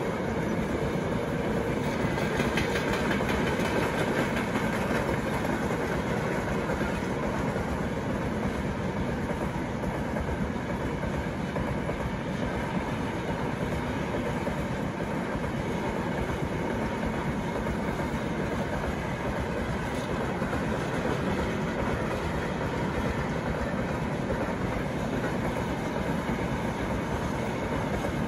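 Steady, continuous rumbling noise of a vehicle in motion, even in level throughout with no pauses.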